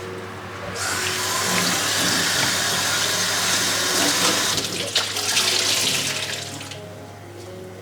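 Water running from a tap into a sink: the flow starts about a second in, runs steadily and is shut off near the end.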